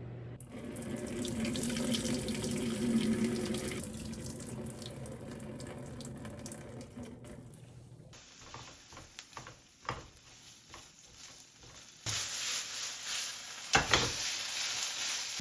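Water running from a tap into a sink, with a quieter stretch of a few clicks and knocks in the middle before the running water starts again.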